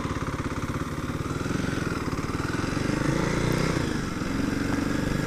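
Motorcycle engine running under way with a steady throb; its pitch rises gently, then eases off about four seconds in.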